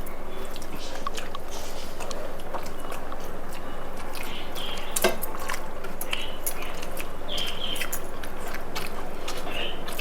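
Wet chewing and mouth clicks of people eating rice and chicken curry, scattered small smacks with one sharper click about halfway through, over a steady hiss.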